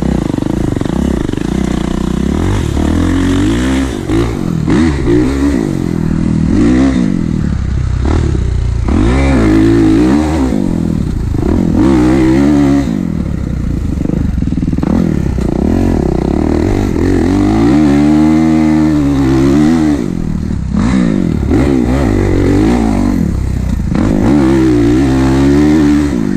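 Kawasaki KX450 dirt bike's four-stroke single-cylinder engine being ridden hard, revving up and dropping back over and over with each twist of the throttle and gear change.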